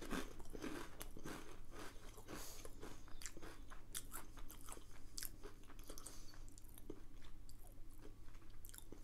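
A person chewing a mouthful of ridged potato crisp: many small, irregular crunches close to the microphone.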